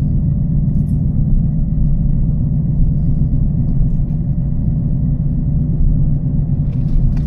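Burble of the TVR Chimaera's 4650 cc V8, which has a race cam and its pre-cats removed, running steadily at an even engine speed while driving.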